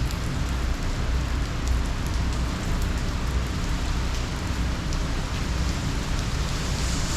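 Steady heavy rain from a hurricane, with a low rumble underneath.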